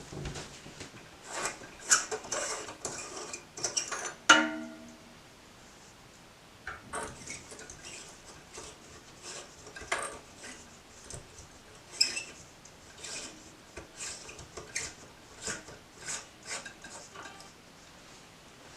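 Hands screwing a smart LED bulb into a light socket: scattered scrapes, rubbing and light clicks, busiest in the first four seconds with a brief squeak about four seconds in, then quieter clicks and scrapes.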